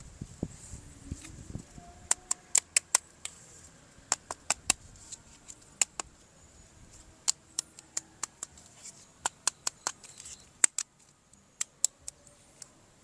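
Plastic toy parts being handled during an unboxing: irregular sharp clicks and taps, sometimes several in quick succession, with a muffled low rustle in the first second or so.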